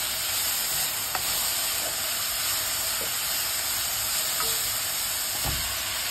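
Shimeji mushrooms and garlic sizzling steadily as they fry in oil in a wok, with a spatula stirring and a few light scrapes and taps. Their water has cooked off, so they are frying in the oil rather than stewing.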